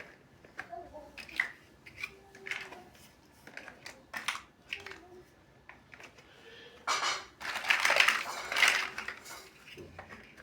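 Plastic building bricks clicking and tapping as they are handled and pressed together, in short separate clicks. About seven seconds in comes a louder, noisier rattle lasting a couple of seconds.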